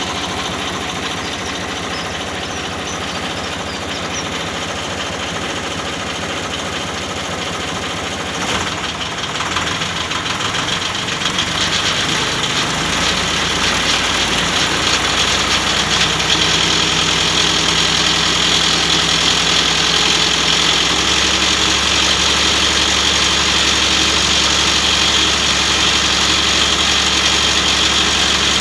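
Miniature railway locomotive's diesel engine running, its note rising about halfway through and stepping up again near the end as it grows louder.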